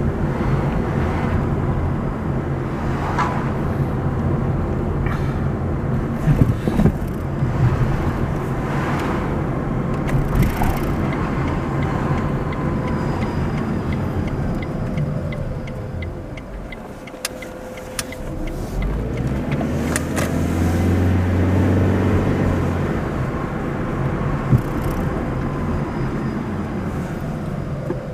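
Car driving along a road: steady engine and tyre noise that dips about two-thirds of the way through, then swells again with a gliding rise in pitch.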